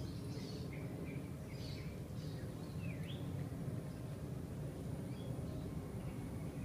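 Birds chirping in the trees, several short high calls bunched in the first half, over a steady low background rumble.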